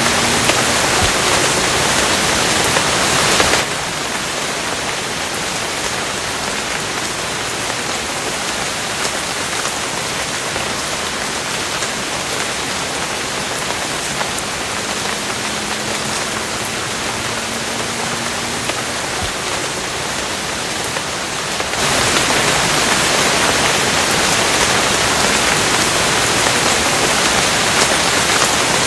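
Steady heavy rain falling, a dense even hiss of drops. It drops suddenly to a slightly quieter, duller rain about three and a half seconds in and comes back up just as suddenly about 22 seconds in, where the recording is spliced.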